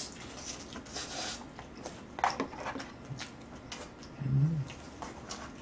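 A person chewing and slurping noodles: scattered wet mouth clicks and smacks, with a short, low closed-mouth "mm" hum about four seconds in.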